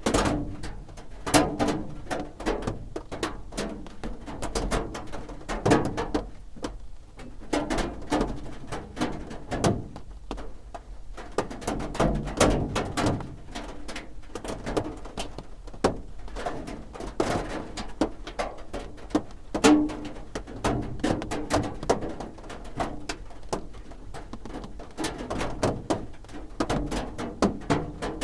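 Raindrops drumming on a roof: a dense, irregular patter of individual drops striking, some louder than others.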